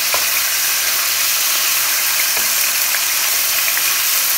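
Ground garlic and ginger paste sizzling steadily in hot oil in a stainless steel pot as it is stirred with a wooden spoon, with a couple of light taps of the spoon.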